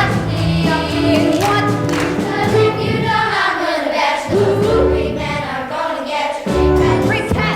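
A musical-theatre song with group singing over a steady accompaniment. There is a long downward slide in pitch about three seconds in.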